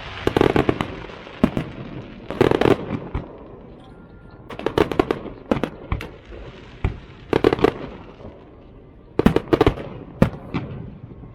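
Fireworks going off: clusters of sharp bangs and crackling pops, with a burst cluster about every two to three seconds and single loose bangs in between.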